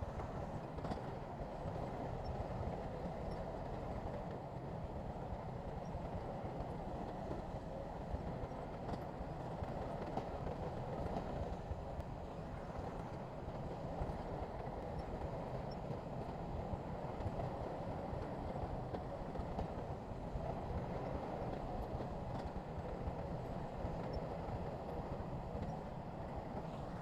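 SHANTUI crawler bulldozer's diesel engine running steadily under load, a dense continuous low rumble.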